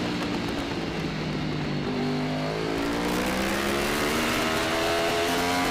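Yamaha R1 superbike's inline-four engine heard from an onboard camera, held at low revs early on, then revving steadily higher from about halfway as the bike accelerates under load.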